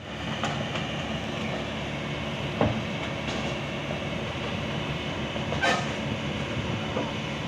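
Kobelko excavator's diesel engine running steadily, with a couple of sharp knocks, about two and a half and nearly six seconds in.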